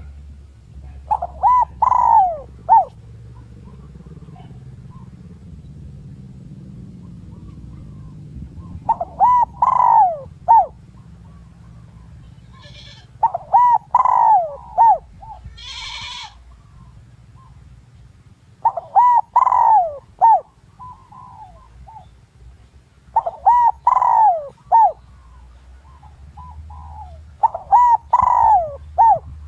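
Spotted dove cooing in six short phrases, each about a second and a half long, repeated every few seconds. This is the call used as a decoy to draw wild males in to fight. A brief hiss comes about halfway through.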